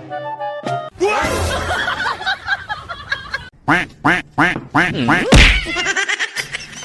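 A run of short animal calls, about seven in quick succession that each rise and fall in pitch, the last one loudest, after a second of background music.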